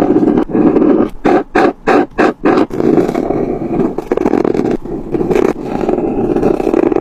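Colouring strokes rubbing on paper: a run of quick back-and-forth strokes about a second in, then longer continuous strokes.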